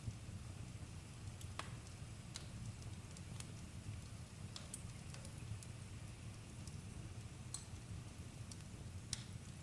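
Wood campfire crackling, with scattered sharp pops about once a second over a low steady rumble.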